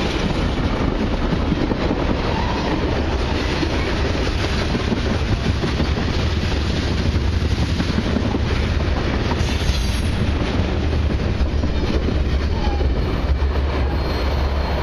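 Cars of a long freight train rolling past at speed, a steady rumble with wheels clattering over the rail joints.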